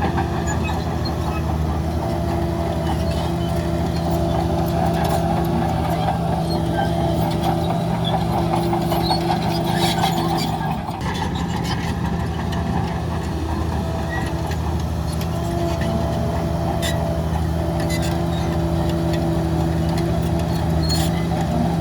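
Heavy diesel engine of earth-moving machinery running steadily, with a few short knocks scattered through and a brief dip in level about eleven seconds in.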